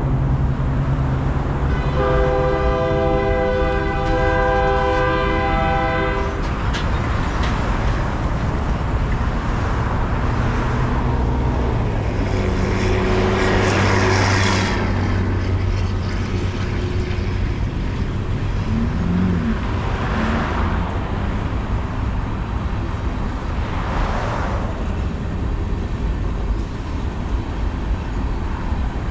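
Diesel freight locomotive horn sounding one long chord for about four seconds, starting about two seconds in, over the low steady rumble of the train. After it, several vehicles swish past one after another.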